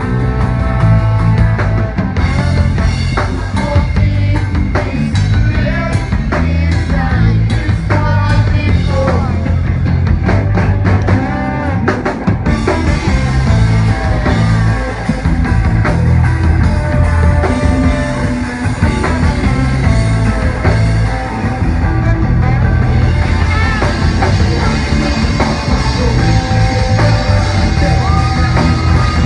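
Rock song with drum kit, electric guitar and singing, loud and steady.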